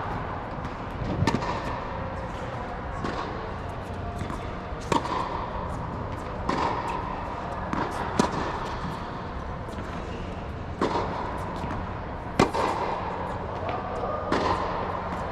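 Tennis balls struck by racquets in a drill: a sharp pop every one and a half to two seconds, over steady background noise.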